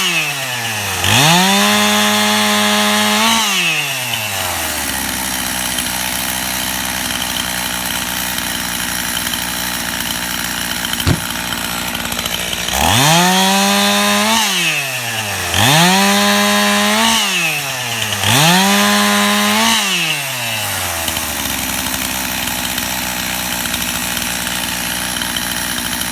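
Gas-powered Stihl two-stroke chainsaw throttled up to full speed four times, about two seconds each, sawing through limb wood, and dropping back to idle between cuts. A single sharp click about eleven seconds in.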